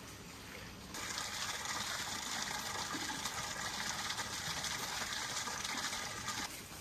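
Water running or gushing in a steady rush, starting abruptly about a second in and cutting off suddenly near the end.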